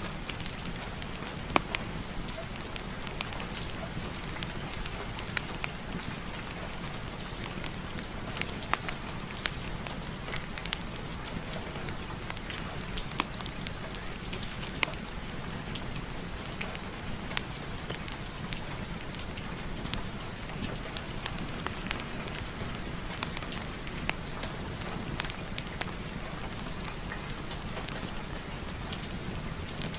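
Steady rain falling, mixed with a wood fire crackling in a fireplace: sharp, irregular pops and snaps, a few louder ones every second or two.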